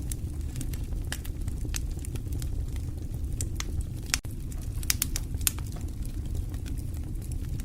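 Wood fire burning in a fireplace: a steady low rumble of flame with frequent irregular pops and crackles from the burning logs, a few sharper snaps about four to five and a half seconds in.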